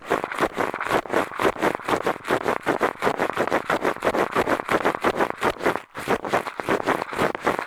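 Eyeglasses used as an ear pick, scraping and rubbing in a microphone's ear: a continuous run of quick, scratchy strokes, several a second.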